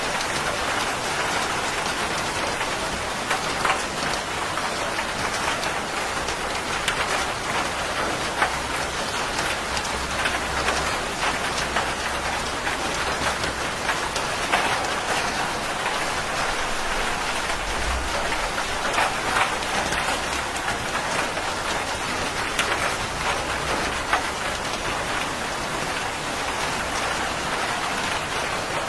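Steady heavy rain falling on a surface, with many individual drops pattering through it. A low rumble of distant thunder comes in about a third of the way through, swells around the middle and fades before the end.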